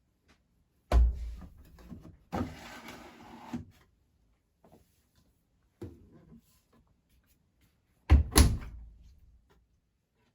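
Siemens WM14T490 front-loading washing machine being handled before a wash: a loud thunk about a second in, a sliding, scraping rustle, a small knock, then a double slam near the end, like the door or detergent drawer being shut.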